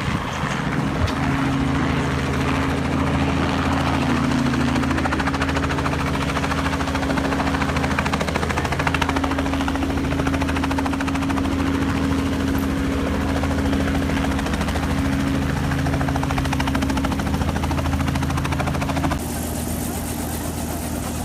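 Helicopter engine and rotor running steadily, a loud even drone with a fast, fine pulsing. About nineteen seconds in the sound changes abruptly and drops a little in level.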